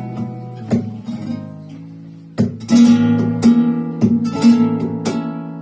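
Flamenco guitar playing a slow bulería between sung lines: a chord rings and fades for about a second and a half, then strong strummed chords come in about two and a half seconds in.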